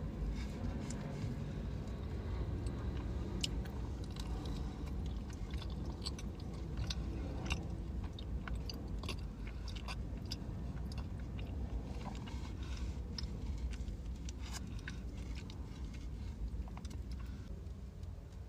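Close-miked chewing and mouth sounds of someone eating a pastry: many small crunches and wet clicks over a low steady hum.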